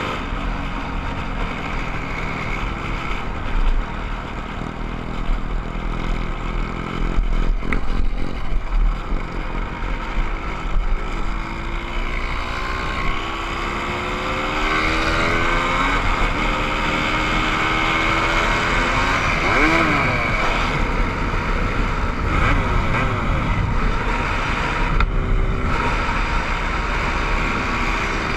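Motorcycle engines running during a ride, with a steady low rumble throughout. About halfway through the engine pitch rises and falls, as if the bikes rev up and pass one another.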